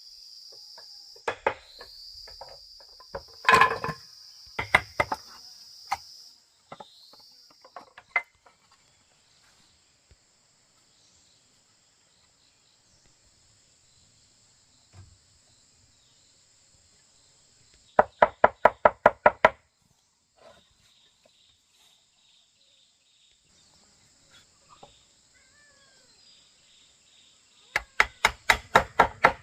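Quick, evenly spaced runs of knocks from blows struck on wood while woodworking, about six a second: a few single knocks early, then two runs of knocks in the second half. Insects keep up a steady high buzz throughout.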